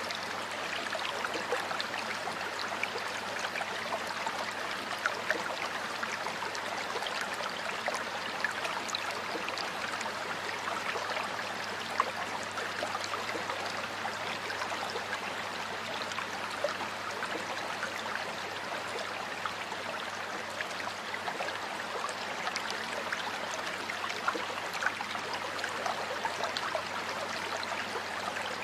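Water flowing steadily in a stream, an even rushing with many small splashes and trickles.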